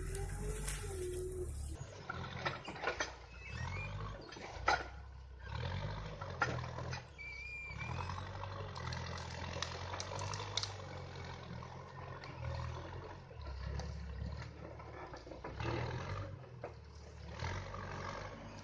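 Heavy diesel engine of a tree-uprooting machine working, its low drone swelling and easing as the load changes. Scattered sharp cracks and knocks sound on top of it, the loudest a little under five seconds in.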